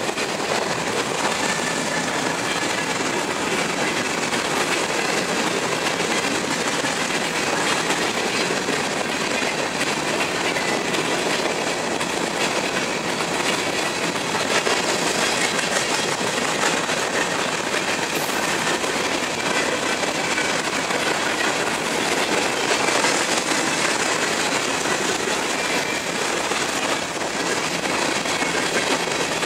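Empty covered hopper cars of a freight train rolling past at speed: steady noise of steel wheels on rail, with clatter from the wheel sets and faint high squeal tones.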